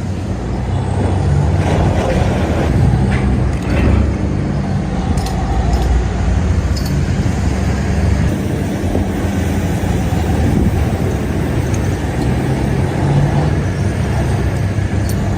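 Diesel engine of heavy earthmoving machinery running steadily, with a few faint knocks.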